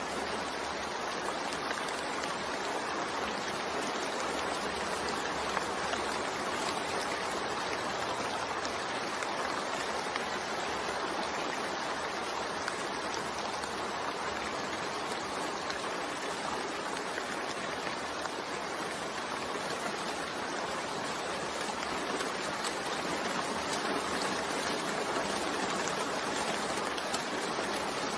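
Rain falling steadily, an even, unbroken hiss with no separate drops or thunder standing out.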